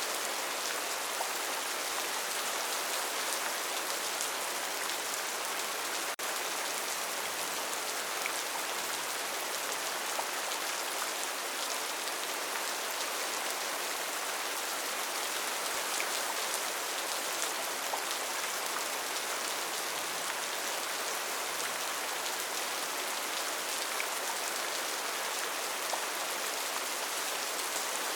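Rainforest rain falling steadily: a dense, even hiss of rain with scattered individual drops ticking through it, and a momentary dip in level about six seconds in.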